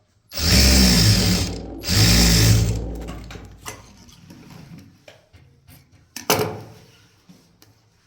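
Electric sewing machine running in two short bursts of stitching, each about a second long, followed by a few scattered clicks and a sharper knock about six seconds in.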